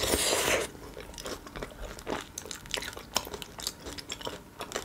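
A crunchy bite into a chicken shawarma's dry, over-toasted lavash, loud for about half a second, then close-miked chewing with many small clicks.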